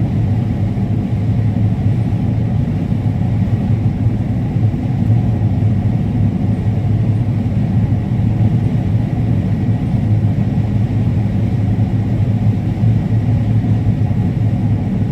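Combine harvester running steadily while cutting corn: a constant low drone with a strong hum that does not change.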